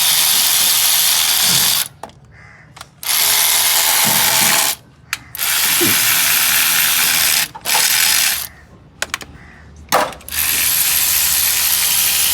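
A mechanical tool running in five loud bursts of one to three seconds each, a dense, even hissing noise with short pauses between.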